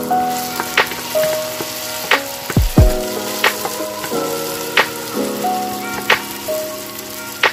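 Diced potatoes sizzling steadily in hot oil in a nonstick frying pan while a wooden spatula turns them.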